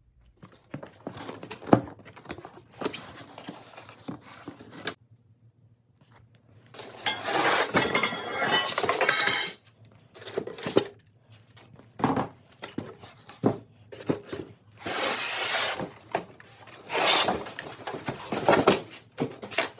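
Table saw parts and packaging being handled: metal pieces clinking and knocking, with stretches of rustling or tearing lasting a second or two. There is a brief silent break about five seconds in.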